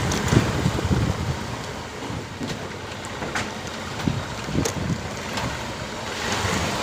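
Wind and road noise on the microphone during a motorcycle ride. A low rumble fades over the first two seconds, leaving a steady hiss with a few sharp clicks.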